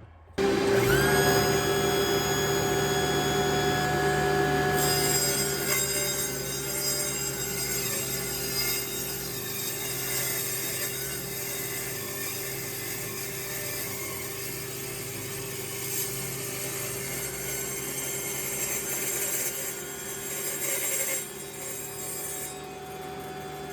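Mini table saw powered at 24 volts starting up, its motor whine rising briefly, then the blade crosscutting a 7/8-inch black walnut board with a steady sawing noise. The cutting sound eases a few seconds before the end.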